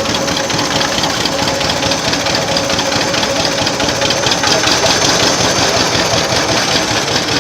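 Old tractor engine running steadily at close range, with a rapid, even firing beat.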